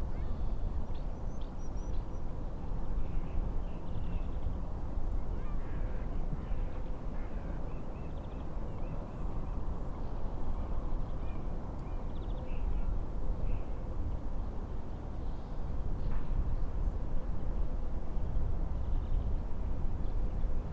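Steady noise of wind and waves on a lake, with scattered short bird calls throughout.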